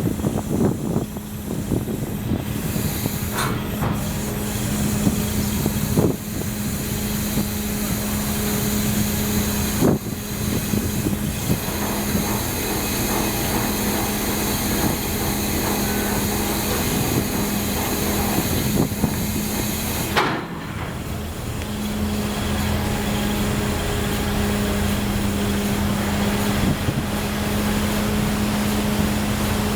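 Car ferry's engines running with a steady low hum, under a constant rush of wind and machinery noise.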